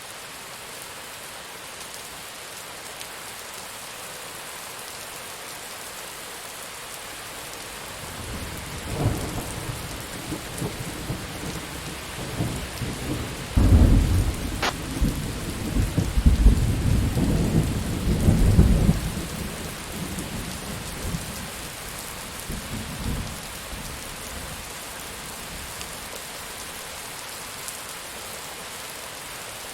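Steady rain falling, with a long roll of thunder that builds about a third of the way in, peaks in the middle with sharp cracks, and rumbles away over several seconds.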